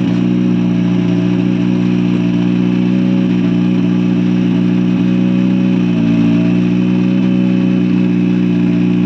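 Car engine idling steadily, with a slight change in pitch about six seconds in.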